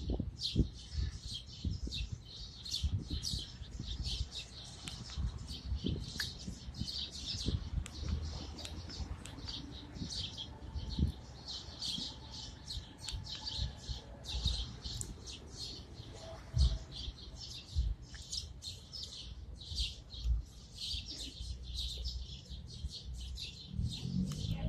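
A flock of birds at a feeder chirping continuously, many short overlapping chirps at once, with scattered low thumps underneath.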